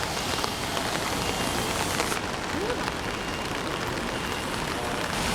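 Steady rushing hiss of water in a flash flood, heavy rain and running floodwater blended into one even noise.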